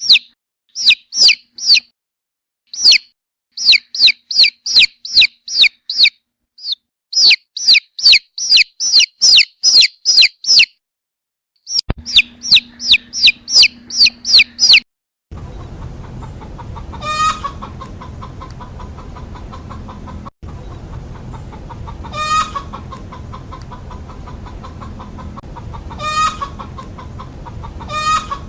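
Chickens calling: runs of quick, high, falling peeps in bursts with short pauses, then, after a cut about halfway through, single short calls every few seconds over a steady background noise.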